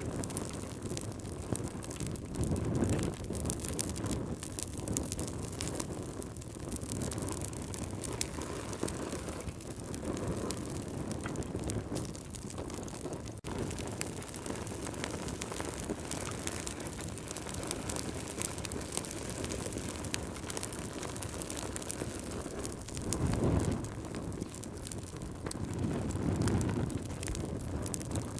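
Campfire burning, with steady small crackles and pops over a low rush, and a few louder low swells of rushing sound, near the start and twice near the end.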